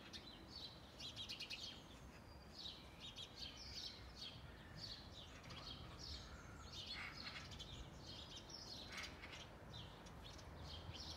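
Small garden birds chirping and twittering in quick, repeated short calls, faint, over a low steady outdoor background hum.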